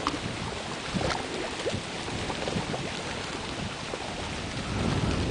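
Wind on the microphone with water around a houseboat: an even noisy wash with scattered small clicks, swelling into a louder low rumble near the end.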